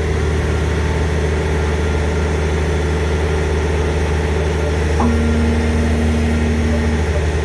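Six-cylinder diesel engine of a hydraulic excavator running steadily, with a short steady higher-pitched tone joining in about five seconds in and lasting two seconds.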